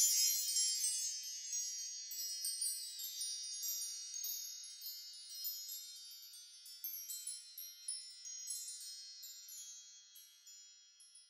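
Cluster of high, bright chimes struck together, then ringing on and fading away slowly over about ten seconds, with scattered lighter tinkles along the way.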